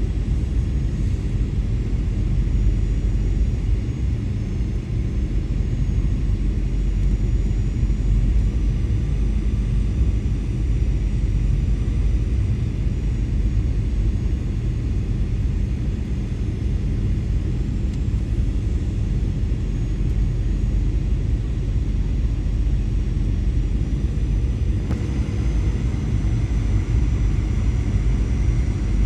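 Airbus A320 cabin noise in flight: a steady low rumble with faint steady tones. Near the end, the higher airflow hiss steps up slightly.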